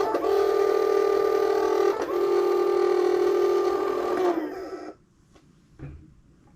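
Onewheel Pint S-Series hub motor spinning its tire freely at top speed, about 23 miles per hour, with the board held still: a loud, steady high whine that briefly dips twice, then winds down in pitch and stops about four and a half seconds in. A couple of faint knocks follow.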